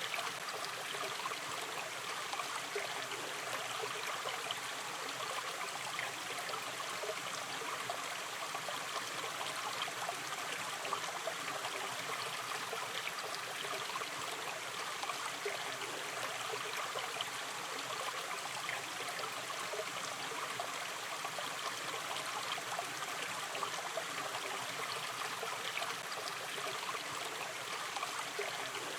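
Shallow river stream running steadily over stones, an even rushing with fine babbling and trickling.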